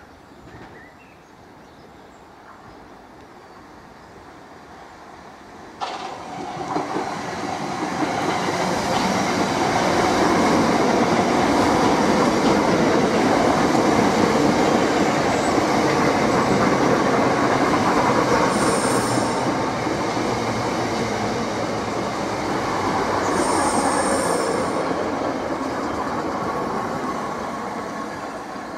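Southeastern electric multiple-unit trains, Class 376 Electrostar and Class 465 Networker, running through and into the station. Quiet for the first few seconds, the wheels on the rails become loud and steady from about six seconds in, with three brief high-pitched wheel squeals in the second half.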